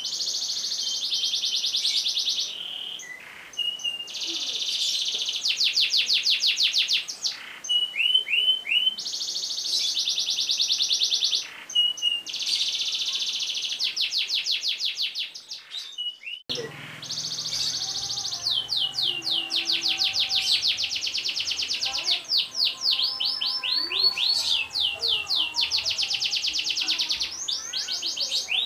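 Domestic canary singing long rolling trills: fast runs of repeated high notes lasting a second or two each, with brief pauses between runs. About halfway through, the background changes and a faint low hum comes in under the song.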